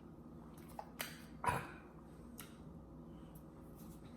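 Quiet eating sounds: a few faint, short clicks and smacks of chewing and handling food, the loudest about a second and a half in.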